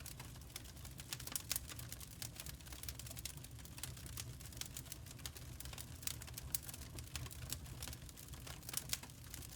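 Firewood crackling: dense, irregular pops and snaps over a low, steady rumble of the fire.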